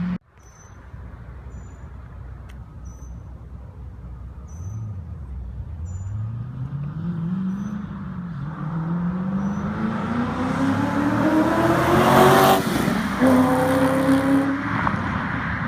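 C5 Corvette V8 with a custom side-exit exhaust through large-case 3-inch Magnaflow mufflers, driving by at wide-open throttle. The engine note starts faint and climbs in pitch as the car accelerates, loudest as it passes about twelve seconds in, then drops to a lower note as it goes away.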